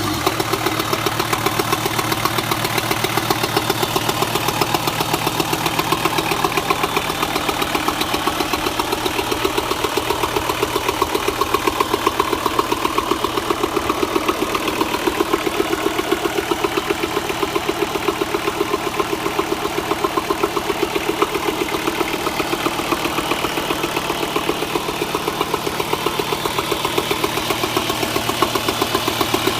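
Nanni 5.250TDI marine diesel engine running steadily at idle, freshly overhauled and on its test run, with an even, rapid pulsing beat.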